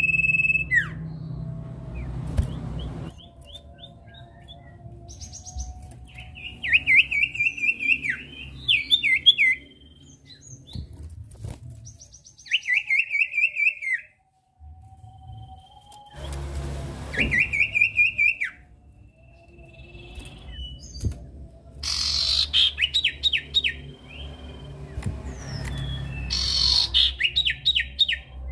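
Common iora (cipoh, known locally as sirtu) singing: short, rapid phrases of clipped high notes, each of about six to ten notes, repeated again and again with short pauses between them.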